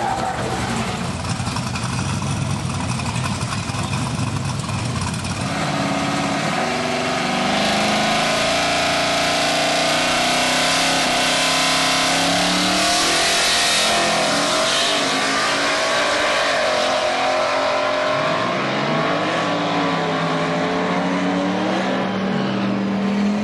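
Twin-turbo 427 V8 of a drag-race Cadillac Escalade running hard down the strip, the engine note climbing and dropping back at the gear changes.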